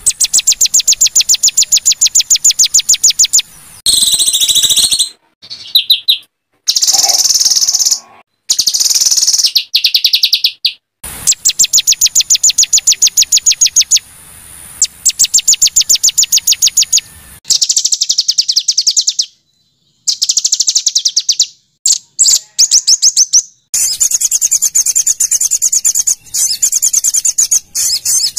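Recorded small songbirds giving harsh, high-pitched trills of rapidly repeated chip notes, about ten a second, in bursts of a few seconds broken by abrupt cuts and brief silences. It is a masteran tutor track of rough 'tembakan' calls, played to teach a white-rumped shama.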